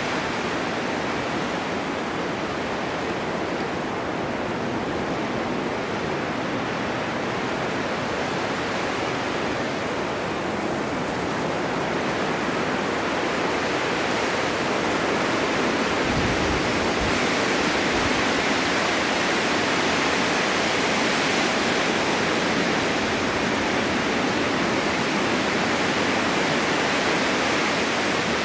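Steady winter wind in a snowstorm, a continuous rushing hiss that swells a little over the second half.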